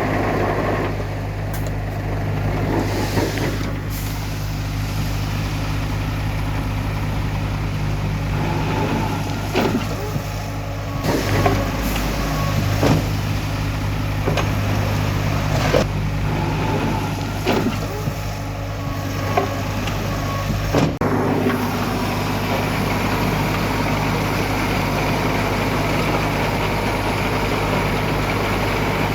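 Heavy diesel earthmoving machinery running steadily, with a dozen or so scattered clanks and knocks of metal.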